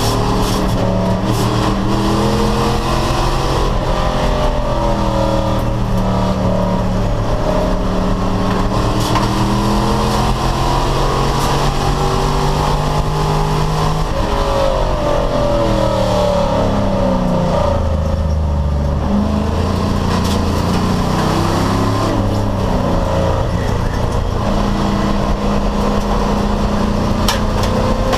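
American Sedan class race car engine under hard throttle, its pitch climbing and dropping with the gear changes. Around the middle it falls to low revs for a few seconds, then pulls back up.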